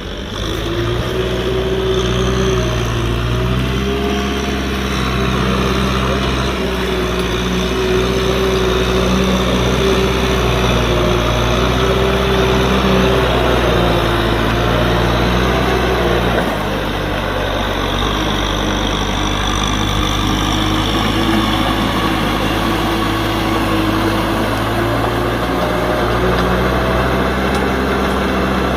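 Kubota M6040SU tractor's diesel engine running steadily while working, dipping slightly in loudness a little past halfway.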